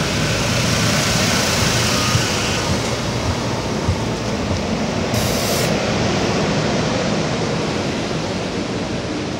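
SEPTA Silverliner V electric commuter train cars rolling past close by as the train slows into the station: a steady rumble of wheels on rail that eases slowly, with a faint high whine fading out after two or three seconds and a brief sharp hiss about five seconds in.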